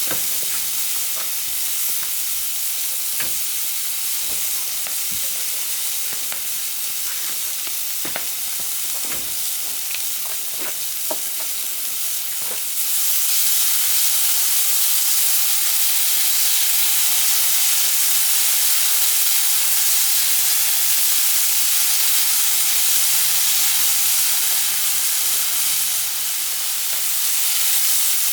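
Food frying in a pan over a campfire: a steady sizzle with scattered sharp pops and crackles. About halfway through, the sizzle suddenly gets louder and steadier.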